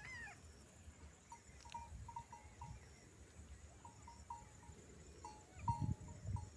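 A goat gives a short falling bleat right at the start. Faint short chirps repeat, and a few low thumps come near the end.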